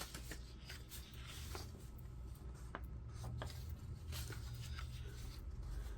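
Faint scattered clicks and light rubbing over a low steady hum, with no voice.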